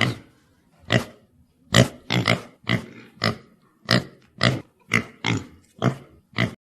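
An animal grunting: about a dozen short, separate grunts, roughly two a second.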